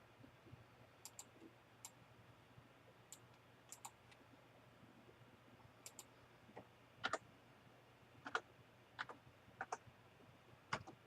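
Scattered single clicks of computer keys being pressed, a dozen or so spaced irregularly, the louder ones in the second half, over near-silent room tone.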